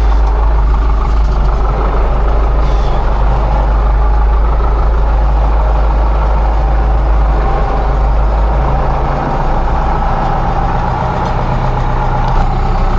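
Engine of farm tilling machinery running steadily and loudly, easing off a little about nine seconds in.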